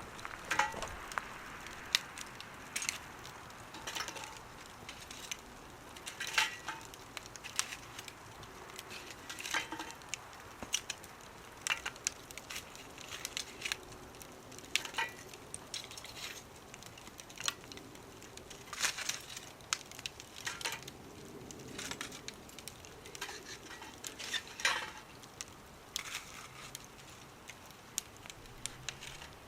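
Burning firewood crackling, with irregular sharp pops and snaps over a faint hiss.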